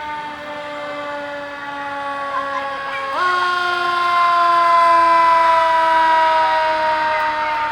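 Fire engine siren sounding a long, slowly falling tone; about three seconds in it jumps sharply back up in pitch and grows louder, then slowly falls again.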